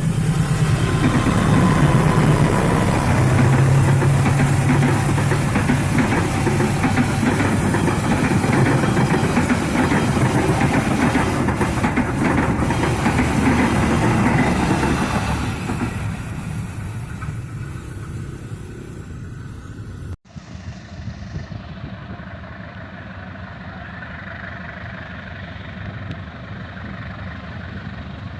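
CC201 diesel-electric locomotive and its train running past, a loud engine drone over rail and wheel noise, fading away after about fifteen seconds. About twenty seconds in it cuts suddenly to a quieter, steady engine rumble.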